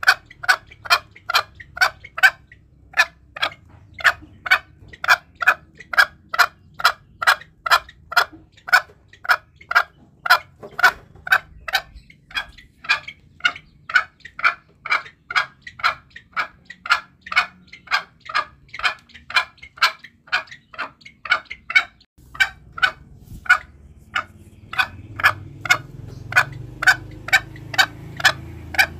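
Green junglefowl calling in a fast, steady series of short sharp notes, about two to three a second, used as a hunting lure. About 22 seconds in, the background noise changes abruptly at a splice in the recording, and a low rumble rises beneath the calls near the end.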